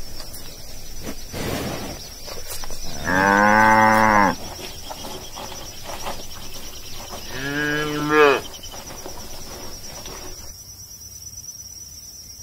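Cows mooing twice: a longer moo about three seconds in and a shorter one about eight seconds in, with a steady high thin whine underneath.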